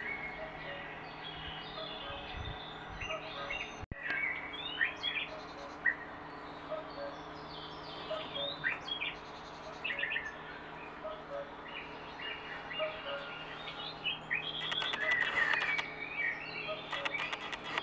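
Small birds chirping repeatedly in short, high tweets. Bursts of rustling come twice near the end.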